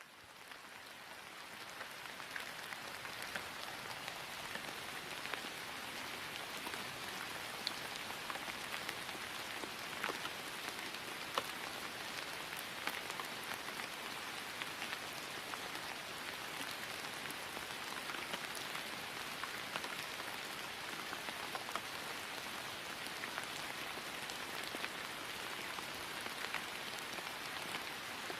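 Steady rain falling on grass: an even hiss full of fine drop ticks, fading in over the first few seconds and then holding level.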